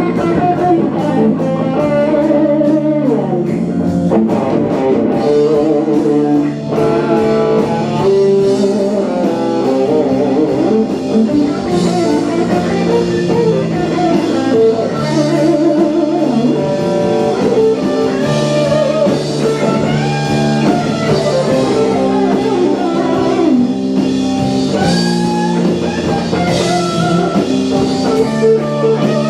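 Live band playing an instrumental passage with a lead electric guitar line over the accompaniment, with no singing.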